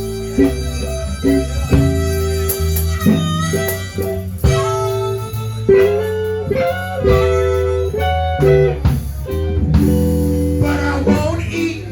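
Live electric blues band playing an instrumental passage, with guitar to the fore over a steady bass line.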